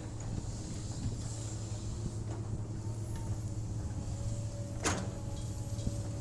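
Hydraulic excavator's diesel engine running steadily with a low drone, and a single sharp metallic clank about five seconds in.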